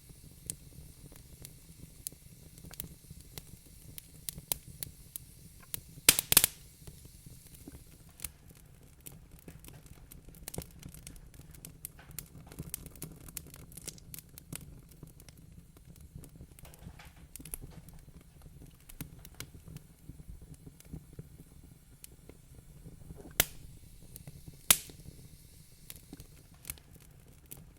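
Wood fire crackling in a fireplace: a steady scatter of small crackles over a low rumble. A quick run of louder pops comes about six seconds in, and two single sharp pops come near the end.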